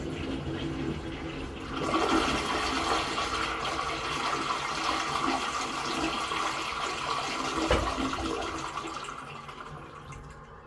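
Daelim Bath CC-761 toilet flushing: water rushing through the bowl, swelling about two seconds in and dying away near the end.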